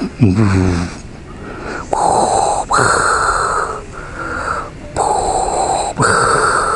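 Darth Vader-style respirator breathing: two slow in-out hissing breaths, one pair about two seconds in and another about five seconds in, after a brief deep voice-like sound at the very start.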